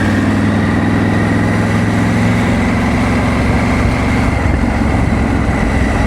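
Motorcycle engine running at a steady pitch with wind rushing over the microphone; the engine note sinks under the wind noise about halfway through.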